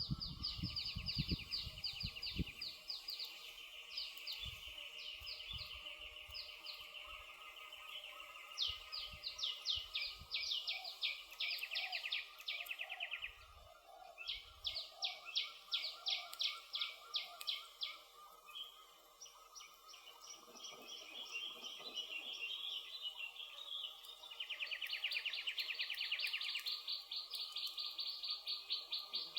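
Songbirds singing rapid trills, each a burst of fast repeated notes lasting a second or two, heard over and over. Soft pops of a crackling campfire come in underneath, mostly in the first few seconds.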